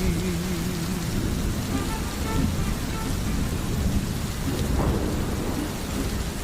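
Steady rain falling, with a low rumble of thunder swelling about five seconds in.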